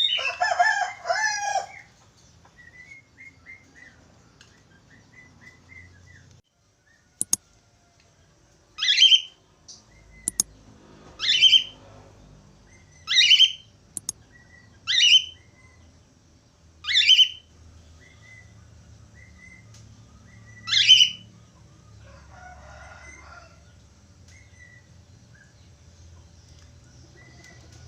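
Budgerigar chattering briefly at the start, then calling with a series of six loud, sharp rising whistles about two seconds apart, with a few faint chirps between.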